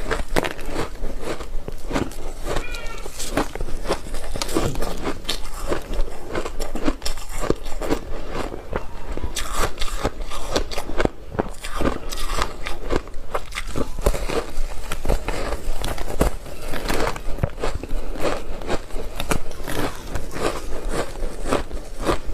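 Ice being bitten and chewed with big bites: dense, irregular sharp crunches and cracks of frozen ice coated in matcha powder.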